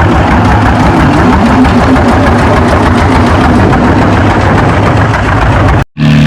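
Antique pulling tractor engine running, with a loud, uneven low chug. An edit cut near the end brings in a steadier engine drone.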